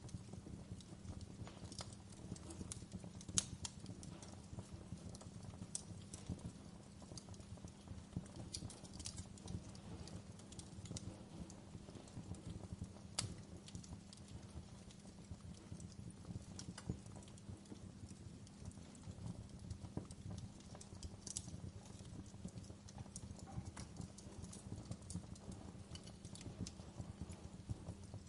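Wood fire burning in a fireplace: irregular crackles and pops over a steady low rumble of flames, with a sharper pop about three seconds in and another near the middle.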